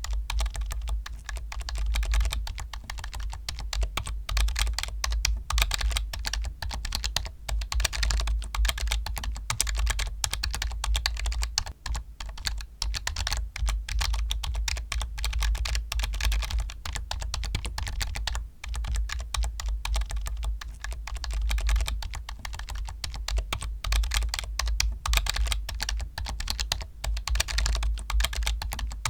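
Computer keyboard typed on fast and without stopping: a dense, even clatter of key clicks, with a momentary break near the middle.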